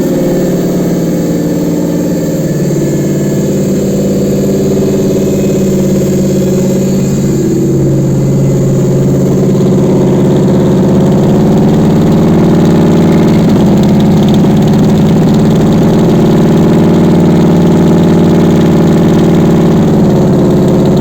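Toyota 1UZ-FE 4.0-litre V8 engine running on a test stand at a steady idle, its note shifting slightly up and down. The engine is fully warmed up and runs evenly.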